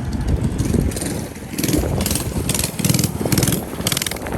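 Small mini bike engine running, its sound swelling and fading in pulses about two to three times a second.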